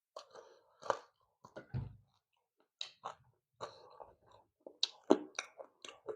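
Close-up chewing and eating sounds: wet mouth clicks and occasional crunches, irregular, a few a second, with a louder crunch about five seconds in.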